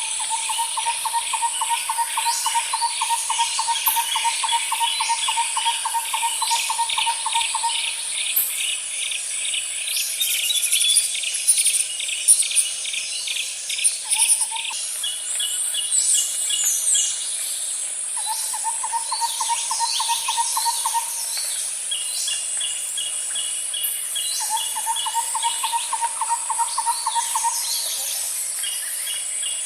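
Outdoor nature ambience: a steady high insect drone with fast pulsed chirping, and a low, even trill that comes in runs of a few seconds (the longest about eight seconds at the start), over scattered short bird chirps.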